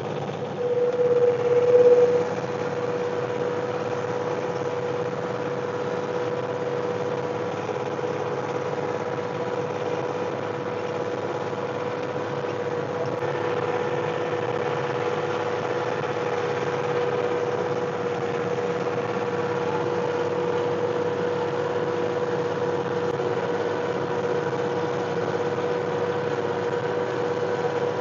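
John Deere 1025R compact tractor's three-cylinder diesel running steadily under light load with a steady whine, briefly louder about a second or two in.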